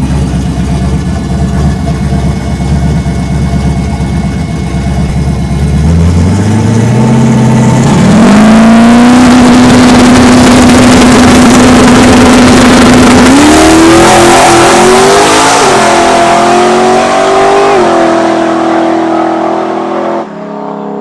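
Turbocharged drag-racing street truck's engine rumbling low on the line, then launching: the revs climb steeply, hold high down the track and drop sharply at a gear shift. That big RPM drop on the shift is what the crew puts down to a tight torque converter while the truck runs low on boost.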